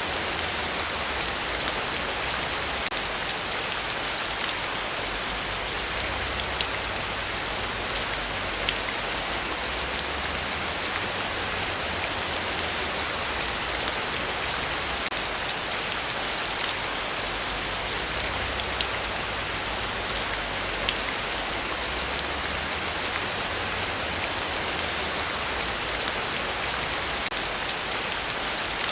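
Heavy, steady rainfall, with individual drops ticking through the constant hiss.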